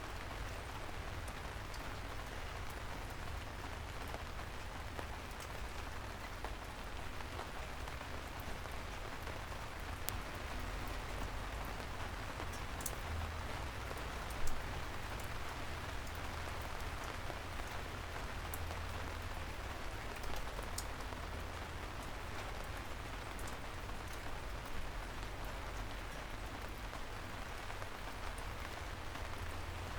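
Steady soft rain falling on a city street: an even hiss over a low rumble, with scattered single drops ticking close by and one louder drop about halfway through.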